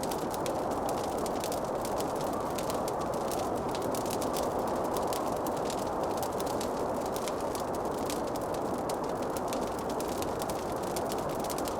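Wood fire crackling in a fireplace: many small quick crackles and pops over a steady rushing noise.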